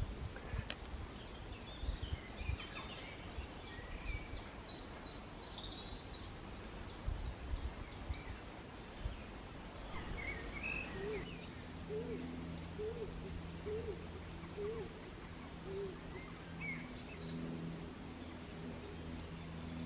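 Woodland birds calling: high chirps and a rapid trill in the first half, then a run of about six short, low hoots about three-quarters of a second apart. A steady low hum sits under the second half.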